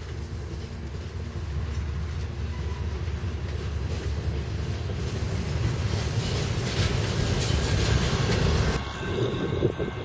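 Freight train's boxcars and container well cars rolling past on the rails in a steady rumble that grows louder, then cuts off abruptly about nine seconds in.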